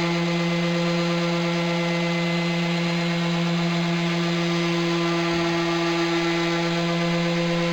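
Electric power tool running at a constant speed, its motor giving a steady, unchanging hum.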